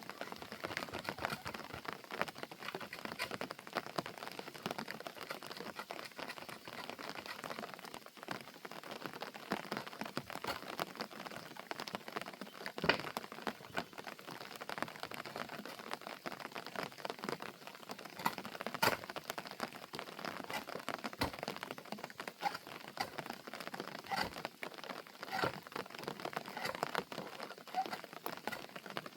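Steady rain pattering on surfaces as a dense run of small drop ticks, with a few louder drops standing out, one about 13 seconds in and another about 19 seconds in.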